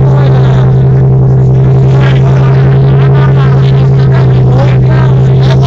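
A car engine held at a steady high rev, very loud and unchanging in pitch, with voices shouting over it.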